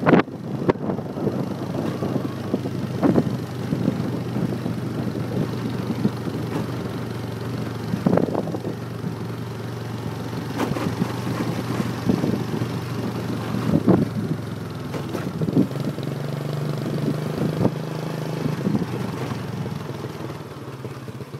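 Motorbike engine running steadily while riding, with scattered knocks and thumps. The engine note shifts about sixteen seconds in.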